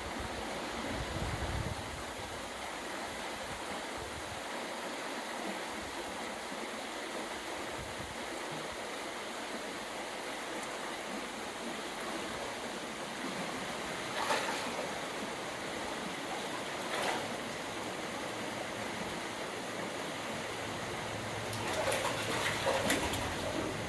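A small wild stream running steadily over its bed, a constant rushing of water. A few brief sharp sounds cut through it about two-thirds of the way in, with a short cluster of them near the end.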